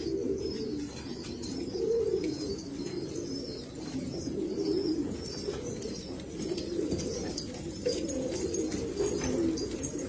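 Several domestic pigeons cooing together in a steady, overlapping low warble, with faint high chirps over it.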